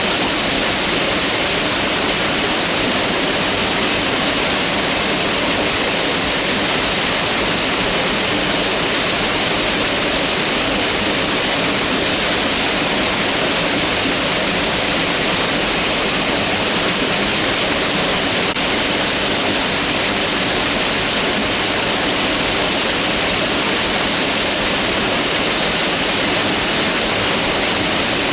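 Mountain river rushing steadily over rocks: a loud, even hiss of water with no change.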